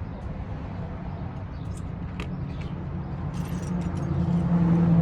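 Low rumble of a nearby vehicle's engine, growing louder near the end, with a few light metallic clicks from tools being handled.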